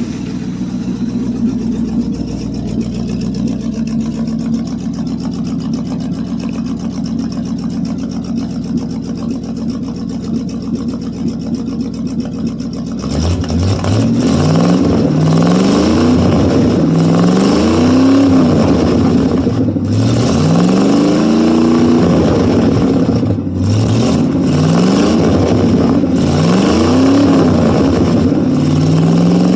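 International 345 V8 of a 1973 International 1210 pickup, heard at the exhaust, idling steadily. About halfway through it gets louder and is revved up and down again and again, the pitch rising and falling every couple of seconds.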